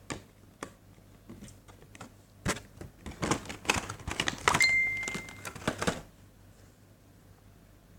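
Hands handling a boxed diecast model airliner and its packaging: irregular clicks, taps and rustles, with a short thin squeak about halfway through, stopping about two seconds before the end.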